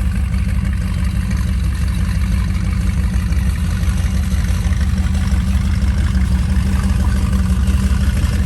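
A car engine running at a steady idle with a deep, pulsing rumble.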